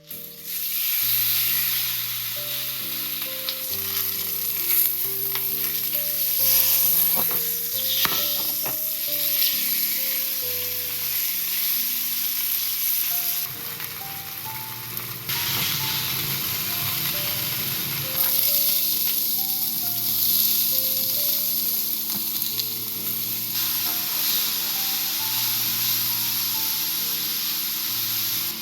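Food sizzling as it fries in a pan, a steady hiss that changes level abruptly a few times, with soft background music underneath.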